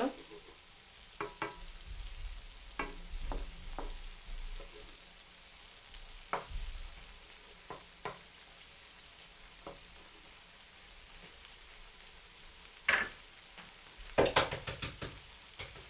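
A diced potato, onion and pepper mixture in tomato paste sizzling in a frying pan with a steady hiss, while a wooden spoon scrapes and knocks against the pan, pushing the food aside. Near the end come a sharp tap and then a quick run of clicks.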